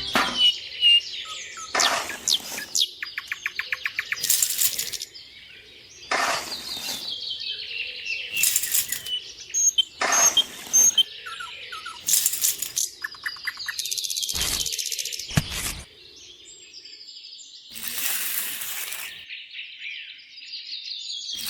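Birdlike chirping and tweeting, with short high falling whistles and sudden sharp bursts every couple of seconds.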